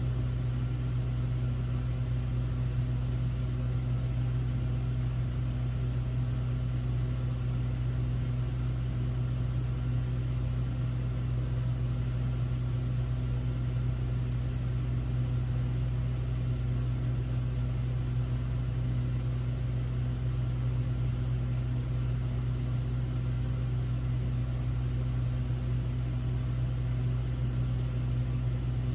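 Hotel room air conditioner running, a steady low hum with an even fan hiss.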